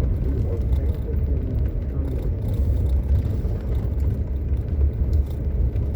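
Steady low engine and road rumble heard from inside a moving vehicle's cabin while driving.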